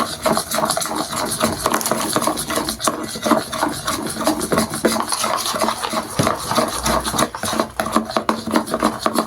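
A spoon stirring a glue-and-foam slime mixture in a small pot, with quick, irregular scraping and rubbing strokes.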